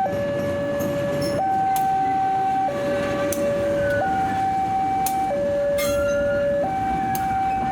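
Electronic two-tone warning alarm of a railway level crossing, switching steadily between a low and a higher note about every 1.3 seconds, over a steady background rumble.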